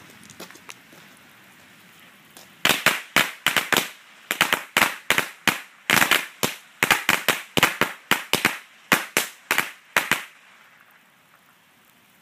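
A strip of 50 Power Crackers, a string of small firecrackers, going off: a rapid, irregular chain of sharp, really loud bangs that starts about two and a half seconds in and lasts roughly seven and a half seconds before stopping.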